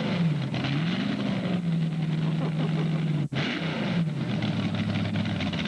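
Mini modified pulling tractor's engine running hard, its pitch rising and falling, then holding steady. The sound drops out for an instant about three seconds in, and the engine note settles lower near the end.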